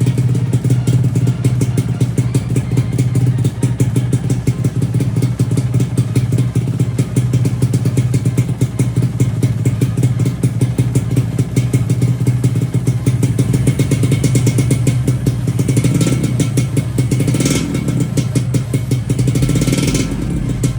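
Yamaha RXZ's two-stroke single-cylinder engine running steadily.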